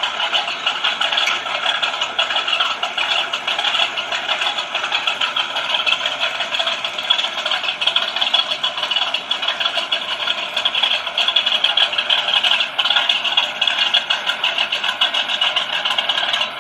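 A car engine running steadily with a fast rattling texture.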